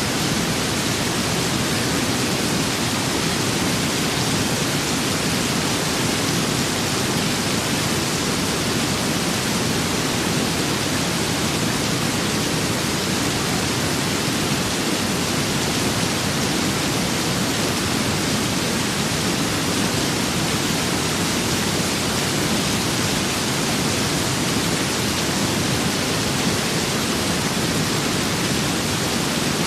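Steady, dense rain with wind: an even, unbroken hiss with no single drops or gusts standing out.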